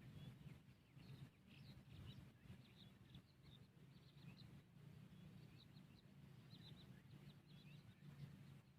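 Faint, scattered short bird chirps, many in quick succession, over a low steady rumble.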